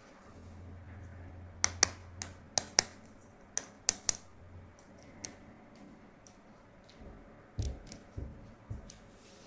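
Sharp clicks, about eight in two and a half seconds, from plastic toys being handled, then a few dull knocks near the end.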